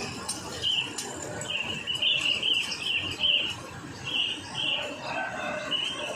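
Small birds chirping: a run of quick, short, high notes, thickest a couple of seconds in and again near the end, over faint background noise.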